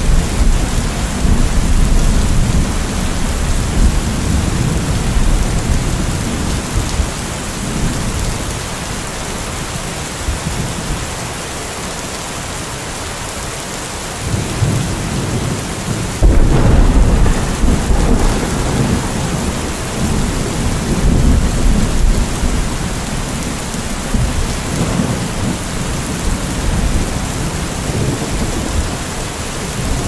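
Thunderstorm: steady heavy rain with rolling thunder. The rumbling eases off, then a sudden loud thunderclap comes about halfway through and rumbles on, with further rolls after it.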